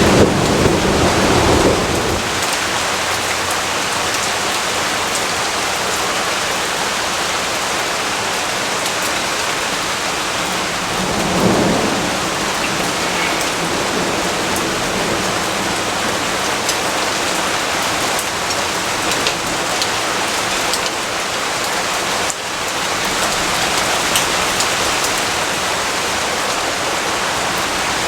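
Steady rain falling, with low rolls of thunder at the start and again about eleven seconds in.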